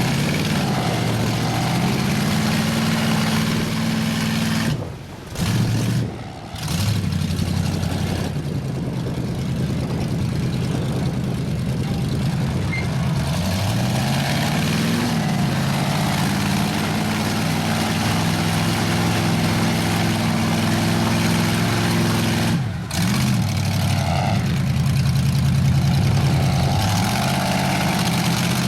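Large lifted mud-truck engines running and being revved, the pitch climbing and falling several times. The sound drops out briefly about five and six seconds in, and again later.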